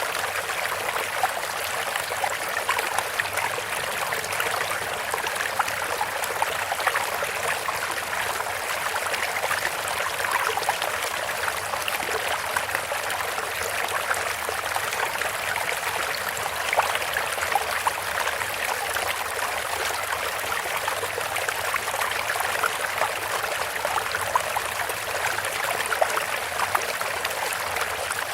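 Bamboo water fountain: water trickling and splashing steadily from the bamboo spout, with many small irregular splashes.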